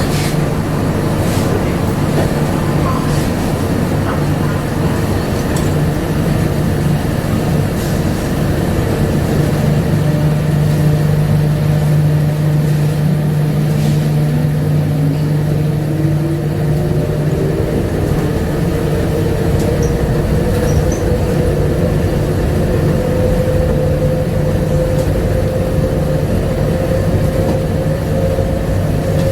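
A Bombardier APM100 rubber-tyred people-mover car heard from inside while running, with a steady low hum and rolling rumble. A few sharp clicks come near the start. From about halfway through, a motor whine rises steadily in pitch as the train gathers speed.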